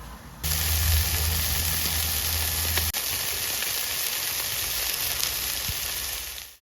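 A loud, steady hiss like running water or sizzling starts about half a second in, with a low hum under its first few seconds, and cuts off abruptly near the end.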